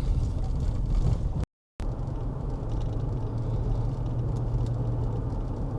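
A 2016 Chevy Colorado pickup's engine running steadily with a low drone, cut briefly to silence about a second and a half in.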